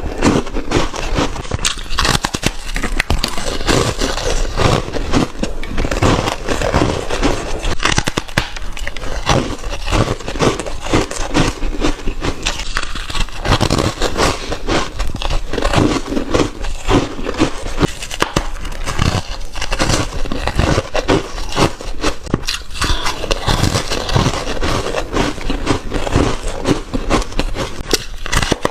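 A person biting and chewing ice close to the microphone: dense, continuous crunching and crackling, bite after bite without a pause.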